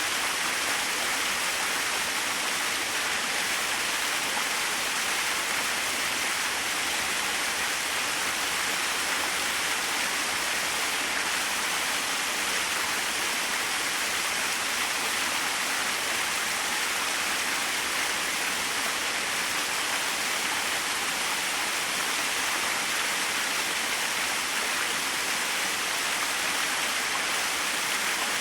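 Small waterfall splashing steadily, an even rushing of falling water with no breaks.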